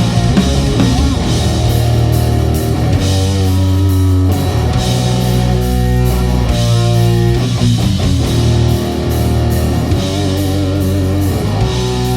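Live rock band playing: electric guitar holding long notes with vibrato over bass and a drum kit with steady cymbal strokes.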